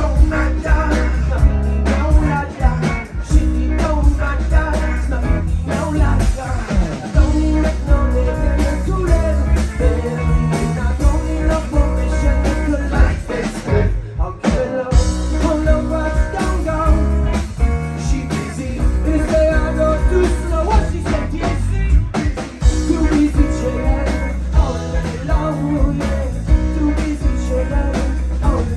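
Live rock-blues band playing loudly, with electric guitar, a heavy bass line and drums, with a brief break in the music about halfway through.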